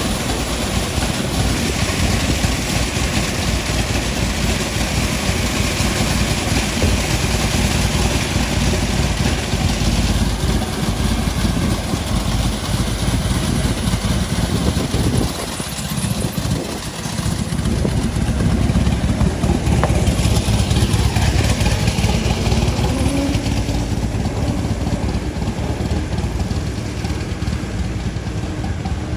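Street traffic: vehicle engines running and passing, steady and dense, with a brief lull about halfway through.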